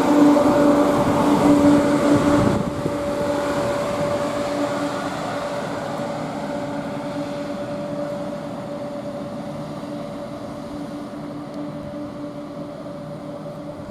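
CrossCountry Class 170 Turbostar diesel multiple unit pulling into the platform and slowing to a stand, its running noise fading after the first couple of seconds and leaving a steady hum.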